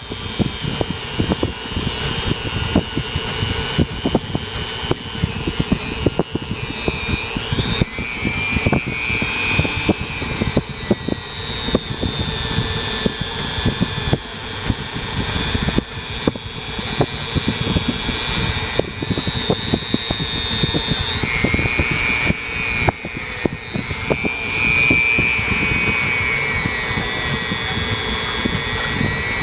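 Dremel rotary tool with a wire wheel scrubbing carbon deposits from a cylinder head's combustion chambers and valves: a high motor whine whose pitch sags and recovers several times as the wheel is pressed on and eased off, over continuous scratchy crackling.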